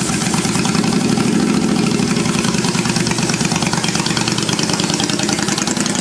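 Custom motorcycle's engine running steadily, with a fast, even pulsing beat.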